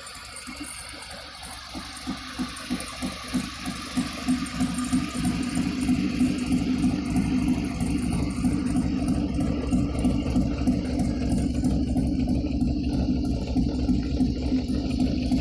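1937 Ford truck's flathead V8 engine building up over the first four seconds or so, its firing pulses getting louder and quicker, then running steadily with a rattle.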